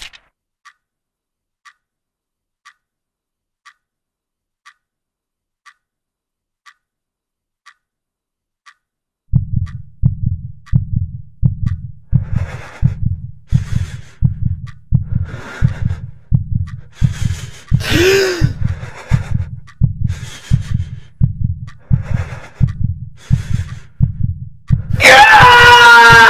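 Clock ticking faintly about once a second, then from about nine seconds in a heavy heartbeat sound effect pounding about twice a second, with breathy hisses over it. Near the end a very loud scream bursts in over the heartbeat.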